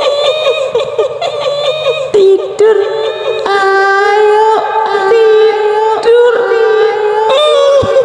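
Kuntilanak ghost voice: a high-pitched woman's voice giggling in rapid short notes for about two seconds, then wailing in long drawn-out notes, each held a second or more and stepping in pitch.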